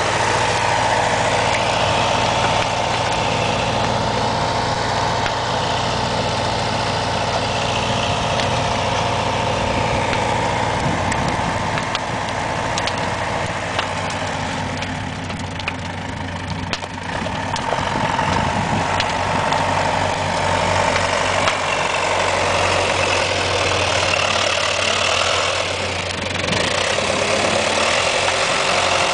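John Deere tractor engine running steadily, dropping a little in level for a couple of seconds about halfway through before picking up again.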